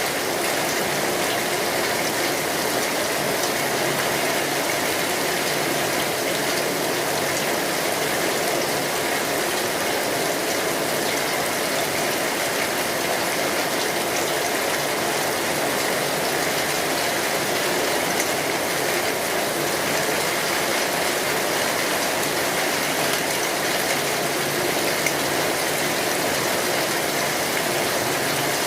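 Steady rain drumming on a metal roof, an even hiss with no let-up, mixed with small crackles from a wood fire.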